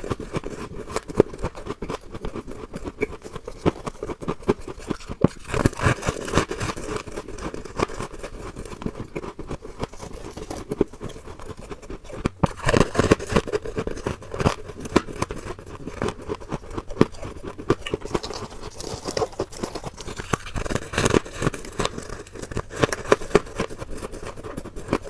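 Freezer frost ice being scraped and bitten: a dense, continuous run of crisp crackling and crunching, with several louder clusters of crunches.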